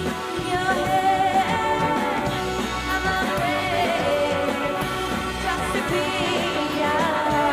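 Indie pop band's song: a sung lead vocal, its held notes wavering, over the full band.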